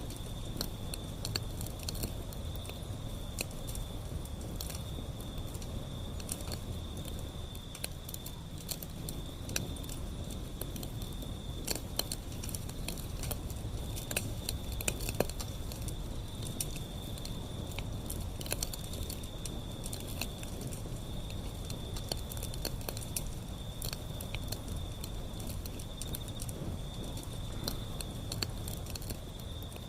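Wood fire burning, with a low rumble and many irregular crackles and pops. A steady thin high-pitched tone runs underneath.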